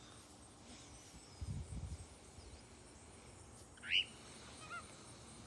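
A bird gives one short, rising chirp about four seconds in, followed by a couple of faint small chirps. A brief low rumble comes earlier, against a quiet outdoor background.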